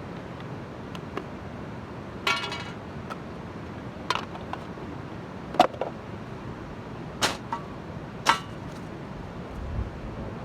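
Steady rushing of a nearby waterfall and stream, with five sharp knocks and clinks spaced a second or two apart, the first a short rattling clatter.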